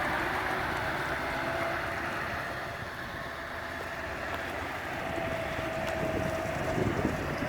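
Scania 580 S truck's V8 engine running steadily on the move, with wind noise over it; a faint thin whine is heard for a couple of seconds late on.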